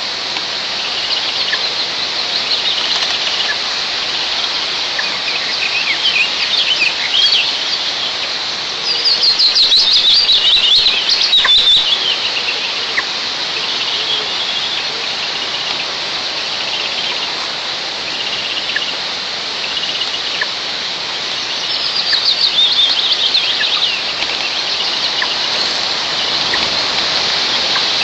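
Small songbirds singing outdoors: two louder trilled songs that fall in pitch, one about nine seconds in and one near twenty-two seconds, among scattered short chirps, over a steady hiss of wind in the pine.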